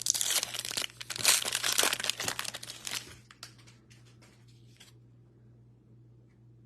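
Foil wrapper of a 2023 Bowman baseball card pack being torn open and crinkled for about three seconds, followed by a few light rustles as it is handled.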